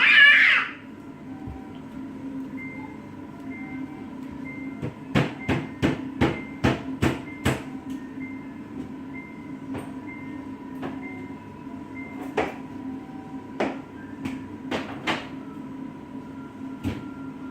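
A brief high-pitched child's squeal at the start, then a quick run of about eight sharp knocks and taps as things in and on a fridge are handled, with a few more scattered knocks later, over a steady hum.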